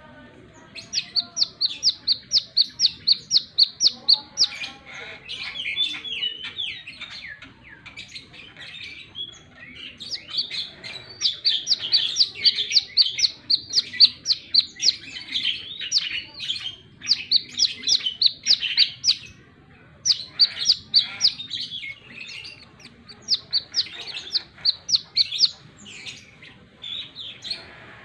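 Brown-throated sunbird (kolibri kelapa) singing: bursts of rapid, high, sharp chirps, about six a second, each burst lasting a few seconds, with lower twittering between the bursts.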